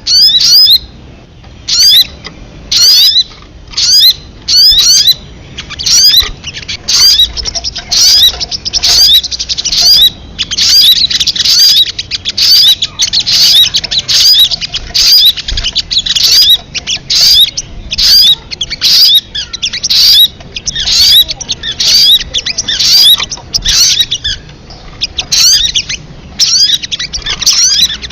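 Looped recording of the bird known locally as sogon, used as a bird-trapping lure call: loud, high chirping call notes repeated steadily, more than once a second.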